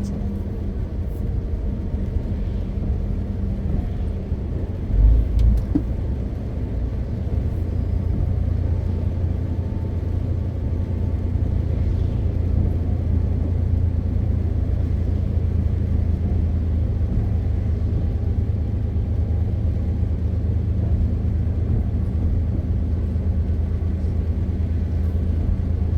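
MAN TGX 520 truck's straight-six diesel running steadily on the road, a low rumble with a steady engine hum. A heavy low double thump comes about five seconds in.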